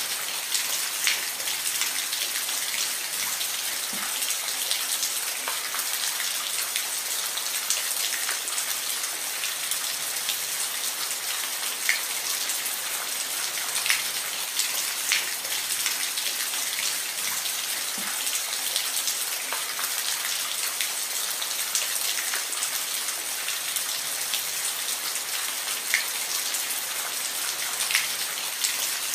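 Steady rain falling, a continuous hiss with scattered louder drops ticking against a surface.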